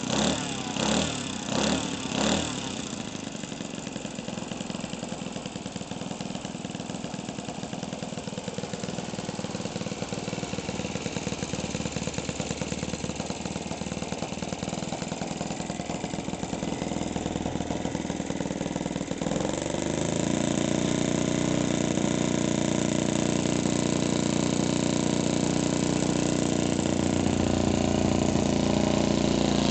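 OS 91 four-stroke glow engine of a model Spitfire running: a few quick surges in the first two seconds, then a steady low-throttle run that is opened up about nineteen seconds in to a louder, higher, steady run.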